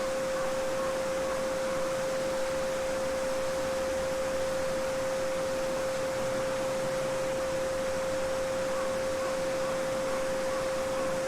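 A steady 528 Hz pure tone, held unbroken, over the even rushing of a babbling brook.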